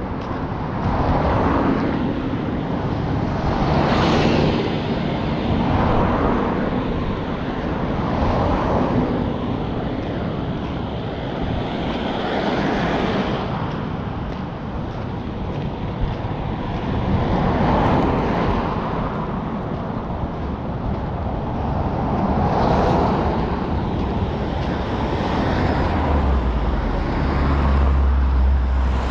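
Outdoor road ambience: vehicles pass one after another, each rising and fading over a second or two. A low rumble of wind on the microphone comes in near the end.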